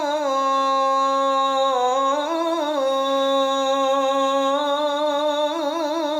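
A man's voice chanting the adhan, holding one long melismatic note on the opening 'Allahu akbar', with quick wavering ornaments and a brief rise in pitch about two seconds in.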